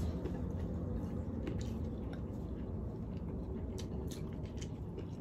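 Mouth sounds of people eating by hand: chewing, with scattered faint wet clicks, over a steady low hum.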